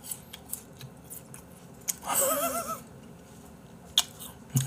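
Close-miked chewing of raw beef sashimi: soft, wet mouth clicks, with a short wavering hum about two seconds in and a sharp click near the end.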